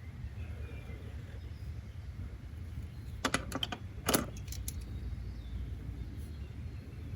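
A quick run of about eight sharp clicks and taps of small hard objects over a second and a half, the loudest about four seconds in. Under them runs a steady low background noise.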